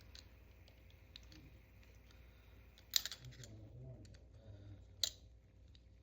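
Light clicking and handling noises, with two sharper clicks about three and five seconds in.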